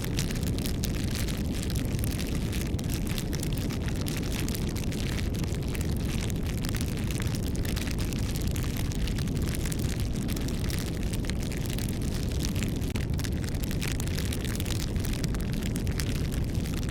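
Wood fire burning with a steady low roar of flames and many small crackles and pops throughout.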